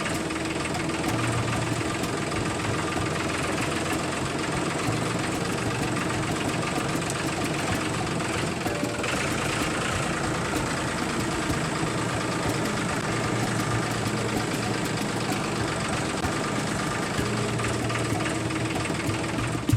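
A DIY mini tractor's small engine running steadily with a fast, even ticking knock.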